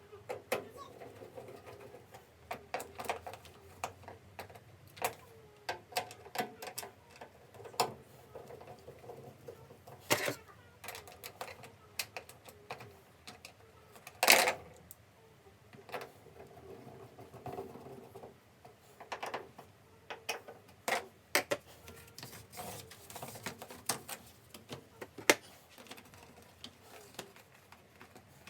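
Scattered irregular clicks and knocks, with one louder knock about halfway through.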